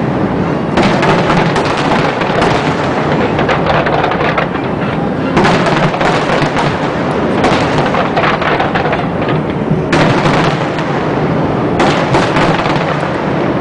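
Fireworks display: a dense barrage of aerial shells bursting and crackling, overlapping bangs with no break, swelling to fresh peaks about a second in, then at around five, ten and twelve seconds.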